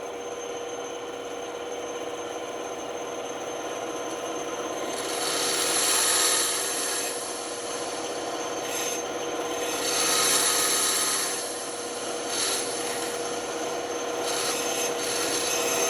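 Band saw running with a steady hum while its blade cuts through wood. The cutting noise swells louder twice, about five and ten seconds in.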